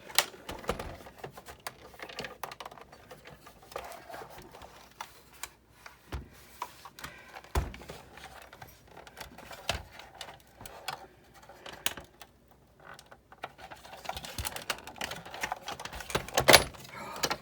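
Scattered clicks, taps and knocks of a tool and small metal and plastic parts being handled while a Sizzix Big Shot die-cutting machine is taken apart, with a louder knock near the end.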